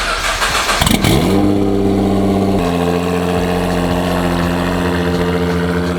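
Nissan GT-R R35's twin-turbo V6 starting up through a straight-through drag exhaust. It catches with a sudden flare of revs in the first second, then settles into a steady idle that drops a little lower a couple of seconds later.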